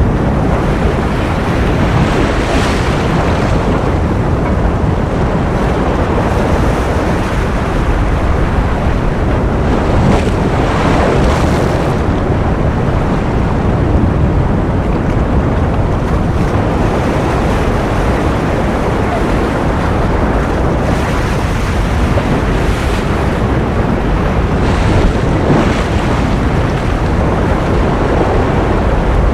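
Ocean surf: a steady low rush of waves, with soft swells every few seconds as waves break and wash in.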